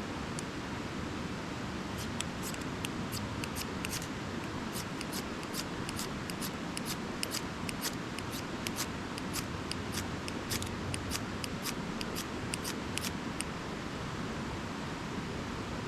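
Ferro rod being struck again and again to throw sparks for lighting a fire: quick, sharp rasping scrapes, several a second, starting about two seconds in and stopping a couple of seconds before the end, over a steady background hiss.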